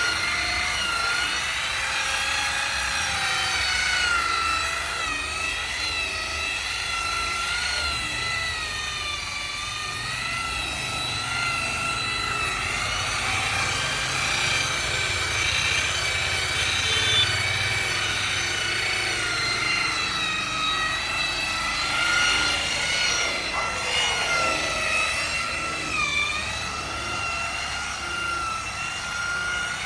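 Electric car-polishing machine running, its motor whine wavering up and down in pitch as the pad is worked over the paint.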